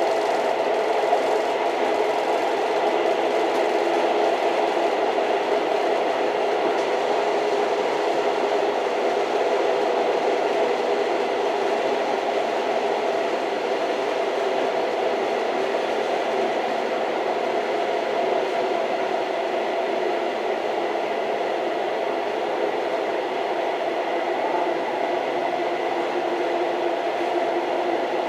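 Old train running steadily: a continuous, even noise with a faint high whine and no distinct rail clicks.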